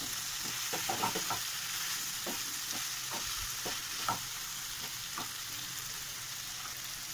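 Chicken pieces sizzling steadily as they fry in a spice paste (bhuna) in a nonstick pan, with a spatula scraping and knocking against the pan as they are stirred. The stirring strokes come thick at first and thin out after about five seconds.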